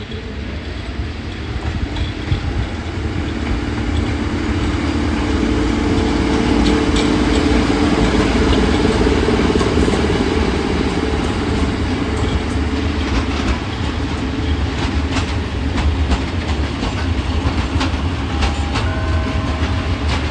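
Freight train of loaded coal wagons hauled by a PKP ET22 electric locomotive rolling slowly into a station with a steady low rumble. A humming tone swells a few seconds in and fades past the middle, and wheels click over the rail joints in the second half.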